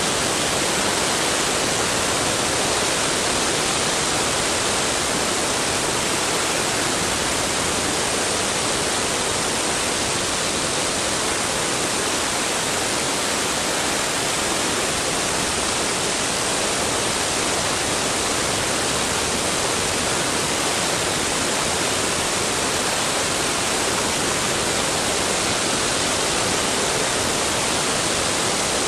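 Steady rush of wind noise on a camera mounted on the tail of a vintage Cessna tailwheel airplane, an even hiss with no clear engine note.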